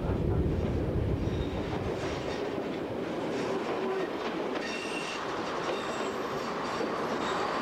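British Rail first-generation diesel multiple unit running along the branch line, heard from inside the carriage: a heavy rumble that thins out after about two seconds, with faint high wheel squeals in the second half.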